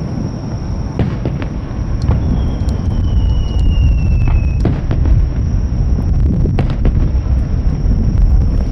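Fireworks display: continuous deep booms of bursting aerial shells, with sharp bangs at about 1, 2, 5 and 7 seconds in. A thin whistle, falling slightly in pitch, runs from about two to four and a half seconds in.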